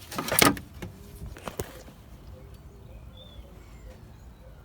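Brief clatter of hand tools being worked in an engine bay at the start, a single sharp click about a second and a half in, then quiet with a faint bird chirp.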